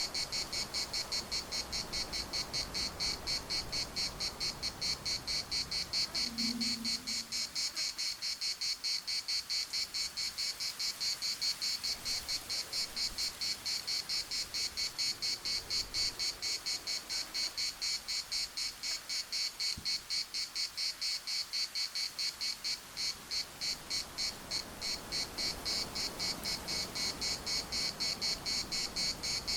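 Chorus of cicadas: a steady high-pitched buzzing that pulses rapidly and evenly.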